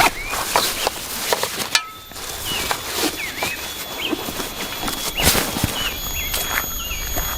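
A bird calling over and over with short hooked chirps, about one every second, over rustling and sharp clicks of gear being handled; from about two seconds in a thin, steady high-pitched tone runs underneath.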